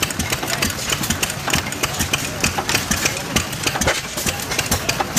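Several stationary engines running together, making a dense, irregular clatter of sharp exhaust pops and mechanical knocks.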